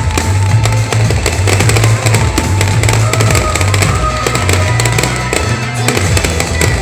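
Fireworks bursting and crackling in rapid, continuous succession, with music playing at the same time.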